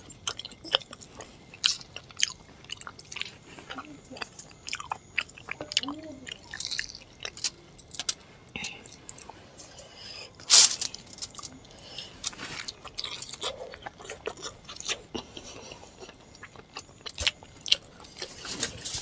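Close-miked chewing and wet mouth clicks of someone eating luchi with chicken curry by hand, in scattered irregular bursts. One louder sudden noise comes about ten and a half seconds in.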